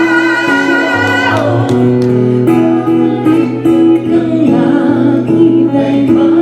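Live band playing the instrumental backing of a slow ballad between sung lines. A long held high note ends about a second and a half in, and steady sustained chords carry on.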